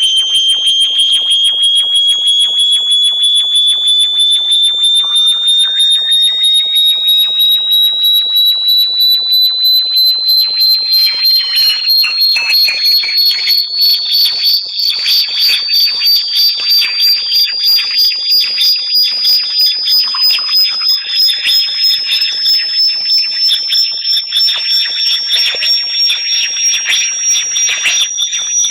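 Synthesized high-pitched bat-repellent tone: a loud electronic whistle that climbs slowly and steadily in pitch while pulsing rapidly, with fainter sweeping tones gliding across it.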